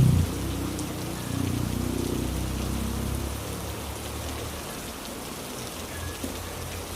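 Heavy rain falling steadily on surfaces as an even hiss. A low rumble underneath fades away over the first three to four seconds.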